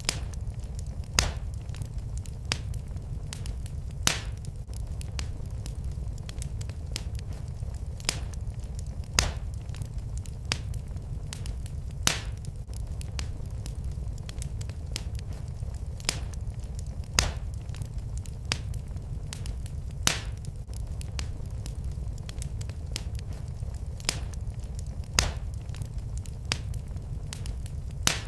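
Fire in a fireplace crackling, with sharp pops every second or two over a steady low rumble.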